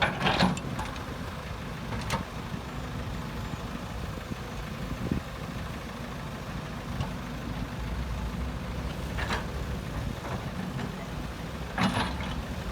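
Heavy diesel construction machinery running steadily at a low, even rumble. A few brief sharper sounds come over it about a second in, around two seconds, and near the end.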